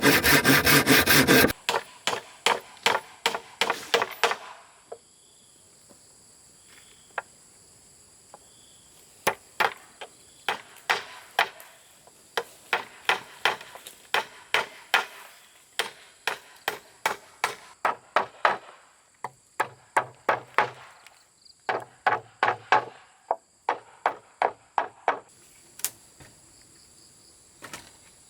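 Bamboo being sawn for the first second and a half, then struck with sharp, repeated blows in runs of two or three a second, broken by short pauses. A steady high insect trill runs behind.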